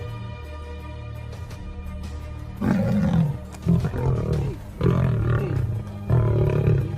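Background music, then, from a little under half way in, four loud animal calls in quick succession, each about a second long.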